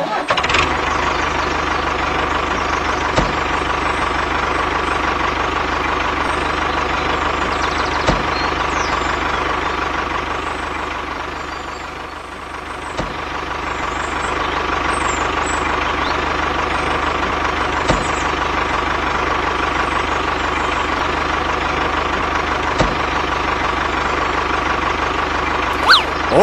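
A motor running steadily with a constant whine, dipping in level about halfway through and then picking up again.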